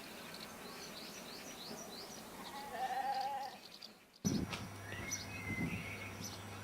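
Outdoor ambience with birds chirping in quick short notes. About three seconds in comes a short wavering animal call, the loudest sound. A little after four seconds the background changes abruptly to other bird calls over a low steady hum.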